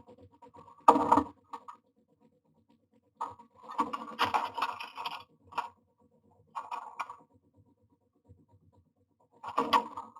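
A common myna moving about inside a wooden nest box: bursts of scraping and rustling against the wood and nest material, about four times with short pauses between.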